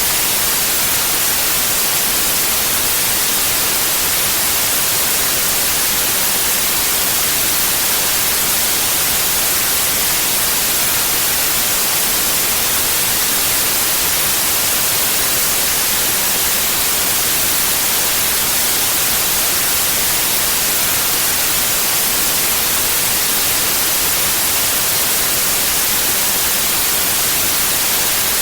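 Synthetic white noise: a steady, loud, even hiss that does not change.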